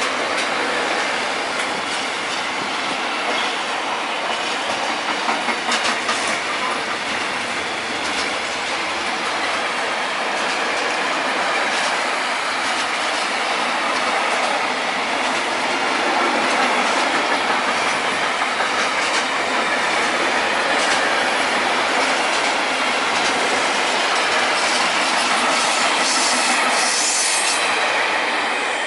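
Intermodal freight train's wagons rolling past close by: a steady loud rumble of steel wheels on rail, with wheels clicking over rail joints now and then.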